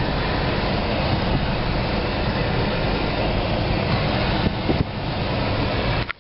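Steady cabin noise of a moving 1999 Pontiac Grand Am GT with its 3400 V6: engine, road and air noise blended into an even rush. It cuts off abruptly near the end.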